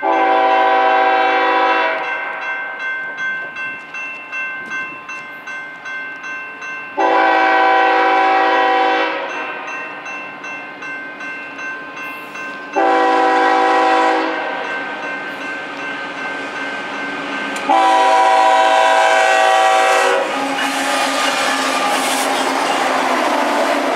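Freight locomotive's multi-chime air horn sounding four blasts, long, long, short, long: the standard signal for a grade crossing. Between the blasts, wheels click over rail joints, and the last few seconds bring the loud rumble of the train rolling past.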